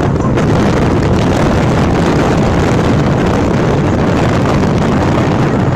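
Motorcycle running, with wind buffeting the microphone: a loud, steady rumble throughout.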